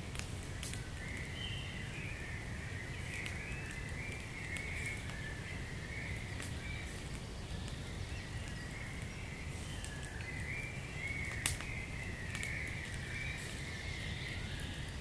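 Wood fire crackling, with scattered sharp pops (the loudest about eleven seconds in) over a low rumble. A continuous high-pitched, wavering animal chorus runs underneath.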